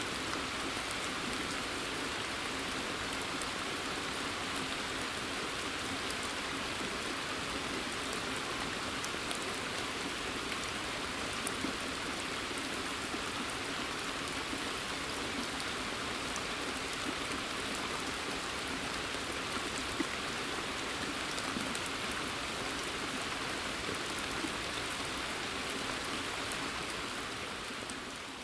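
Steady rain falling in a forest: a dense, even patter with occasional louder single drops. It begins to fade out near the end.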